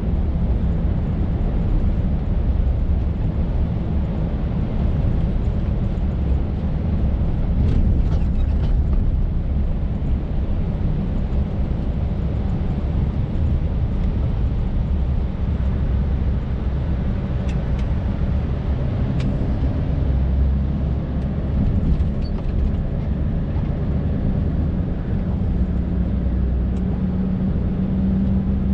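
Scania R580's 16-litre V8 diesel engine running steadily while the truck drives, heard from inside the cab along with road noise. A few brief clicks sound over it.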